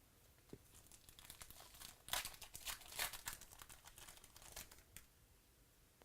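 Foil trading-card pack wrapper crinkling and tearing as it is opened, a run of quick crackles from about two seconds in until near five seconds.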